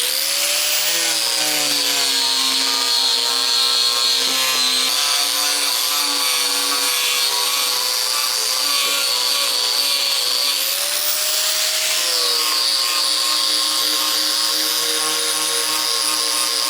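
Angle grinder with a worn scale-removal disc running against steel plate, stripping mill scale. It makes a steady high whine, and the pitch sags and recovers as the disc is pressed on, about a second in and again near twelve seconds.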